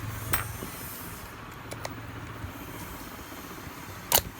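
Handling clicks from a Crown rotary hammer drill as its bit is taken out of the chuck: a few light clicks, then one sharper click near the end. A steady low hum lies under the first half and fades out.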